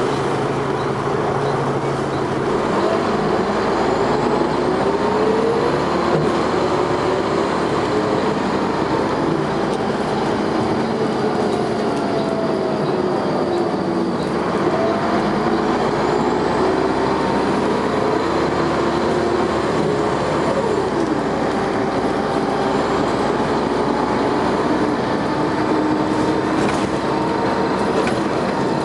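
Dennis Arrow double-decker bus running under power with its ZF automatic gearbox, the engine and transmission whine rising in pitch as it accelerates. There is a gear change about halfway through, then it climbs again.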